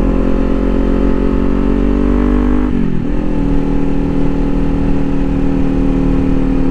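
Kawasaki Ninja 400's parallel-twin engine on its stock exhaust, heard from the rider's helmet while riding. The engine note rises slowly, drops about three seconds in, then holds steady at a lower pitch.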